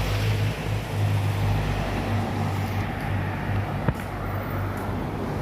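A car engine running steadily at low revs amid street traffic, with a single sharp click about four seconds in.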